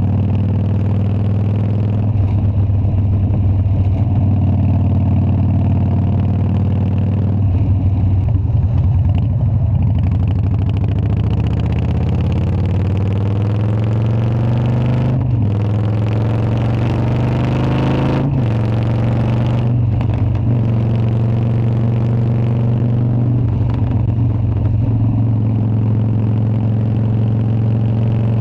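Harley-Davidson Dyna's V-twin engine running steadily, then climbing in pitch over several seconds with two brief breaks in the note, like gear changes, before settling back to an even run.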